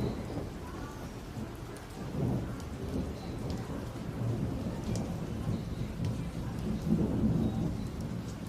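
Thunder rumbling through steady rain, the rumble swelling and fading several times, with scattered raindrops ticking.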